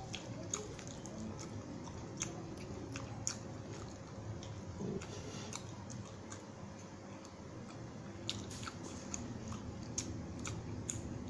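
Close-miked chewing and wet mouth clicks of a person eating a mouthful of rice with beef rendang by hand, in an irregular run of small smacks and clicks.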